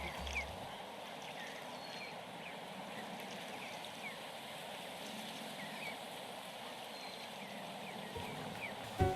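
A flock of geese calling together: a steady, dense clamour of many overlapping short calls.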